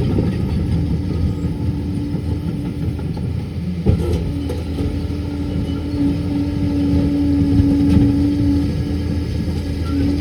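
Liebherr 746 crawler dozer's diesel engine running steadily with a low rumble and a steady hum-like tone over it. The tone breaks off about four seconds in, at a single knock, and comes back stronger afterwards.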